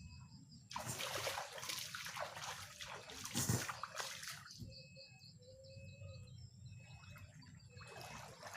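Water splashing and trickling for the first few seconds and again near the end. Short, evenly spaced bird chirps run through the quieter middle.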